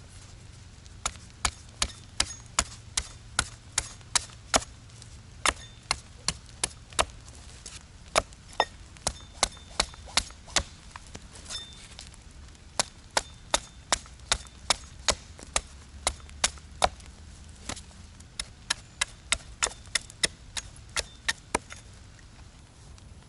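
Wood being chopped with an axe: rapid sharp blows, about two or three a second, in runs of several strokes with short pauses between runs.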